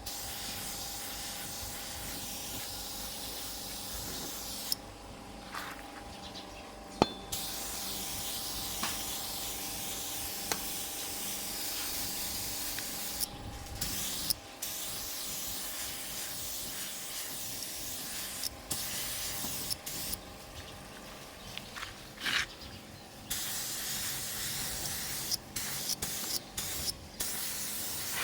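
Spray gun spraying paint in long hissing passes, cut off and restarted several times as the trigger is released and pulled again, over a steady hum.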